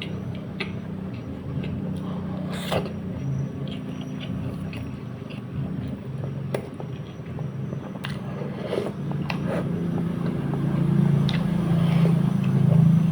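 Close eating sounds from someone eating a braised catfish head: chewing, sucking and lip smacks, heard as scattered short clicks, over a steady low rumble that grows louder near the end.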